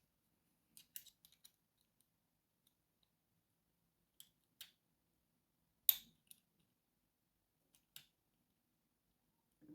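A lock being picked: scattered small metallic clicks of the pick and tension tool working the pins, spaced irregularly with quiet between, the sharpest about six seconds in.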